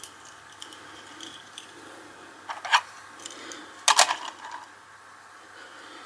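Small metallic clicks and clinks of a die-cast toy car being handled, in two short clusters about two and a half and four seconds in.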